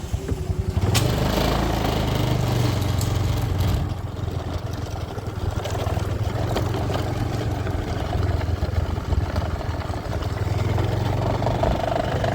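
Heavy diesel engine of a construction machine running steadily close up, with a low hum and mechanical clatter; the level dips slightly about four seconds in.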